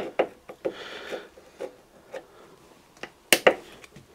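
Scattered metallic clicks and knocks of tools and parts being handled on a workbench, irregular, with the loudest two knocks close together near the end.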